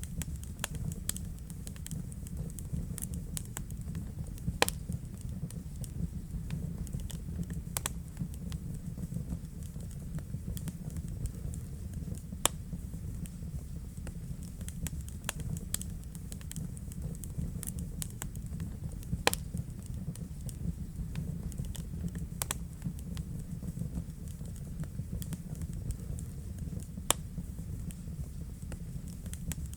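Wood fire burning in a fireplace: a steady low rumble of the flames with irregular sharp crackles and pops, a few of them louder than the rest.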